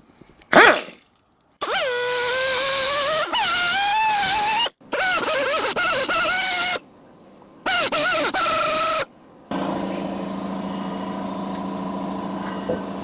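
Angle grinder cutting into the stamped steel end of a door hinge pin in several separate runs, its whine sagging and wobbling in pitch as the wheel bites. For the last few seconds a steadier, lower hum takes over.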